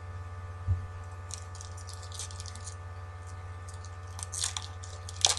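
Foil wrappers of baseball card packs crinkling and tearing as they are ripped open by hand, in two bursts of crackling, with a single low thump about a second in and a steady hum underneath.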